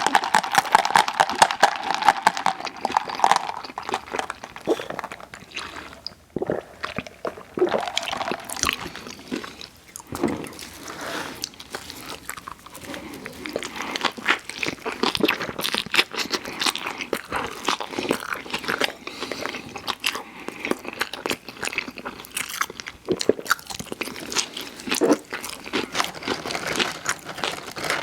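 Close-miked eating of fast food: a steady run of crunchy bites and wet chewing.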